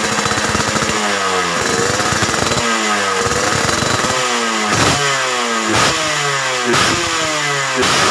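Yamaha RX-series two-stroke single-cylinder motorcycle engine running through a 'kolong kobra' racing exhaust, throttle blipped about once a second with the revs falling away after each blip.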